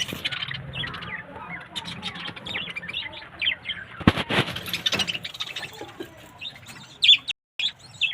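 A colony of budgerigars chirping: many short, quick chirps overlapping, with a louder rustling flurry about four seconds in. The sound cuts out for a moment near the end.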